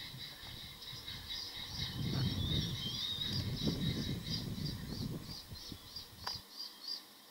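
Birds calling: a fast, steady run of short high calls with a few gliding notes, over a low rumble that cuts off abruptly about six and a half seconds in.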